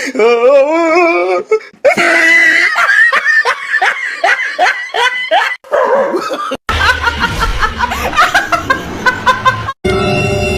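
A person laughing hard in choppy, repeated bursts. The clip cuts and more laughing follows over a low rumble, then music begins near the end.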